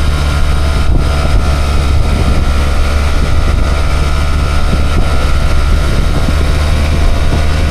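Motorcycle engine running at a steady speed under way, heard from the rider's seat, with wind rushing over the microphone.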